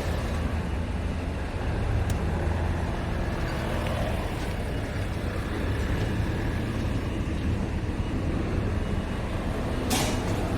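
Scania R500 truck's 13-litre six-cylinder diesel engine idling steadily. A brief hiss comes near the end.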